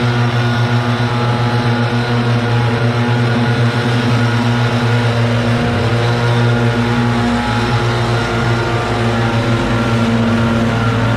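An engine running steadily at constant speed, a continuous drone with no change in pitch.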